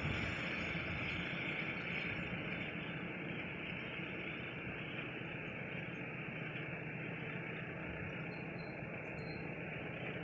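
Faint steady rumble and hiss with a low engine hum under it; the hiss fades a little over the first few seconds and then holds steady.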